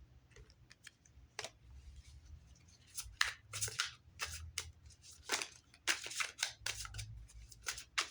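Oracle cards being handled and shuffled: quick papery swishes and snaps, a few at first and then coming fast from about three seconds in.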